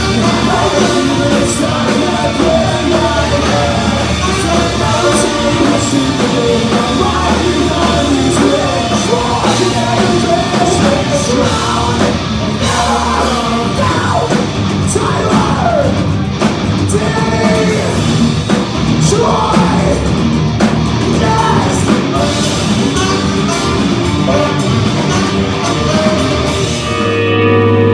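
Live pop-punk band playing loud, distorted guitars and drums with a shouted, sung vocal. Near the end it settles into a long held chord.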